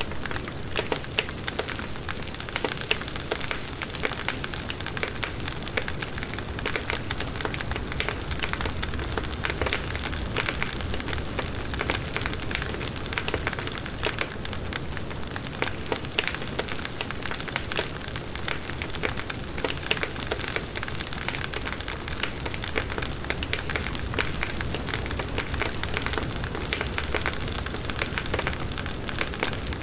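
Firewood burning in a campfire: a dense, irregular crackling and popping over a low rumble of the flames.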